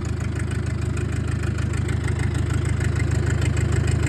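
Fendt tractor's diesel engine idling steadily with an even pulsing beat.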